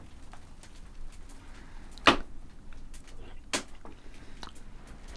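Two sharp knocks about a second and a half apart, with lighter clicks and taps of objects being handled between them.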